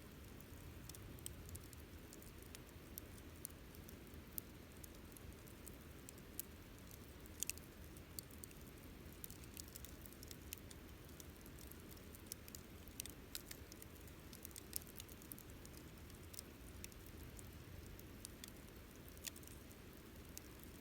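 Campfire burning wood crackling: scattered, irregular sharp pops and snaps over a low steady rumble.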